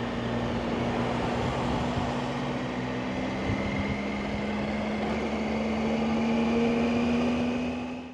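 Motorcycle engine running at a steady cruise under wind and road noise, its pitch rising slightly near the end.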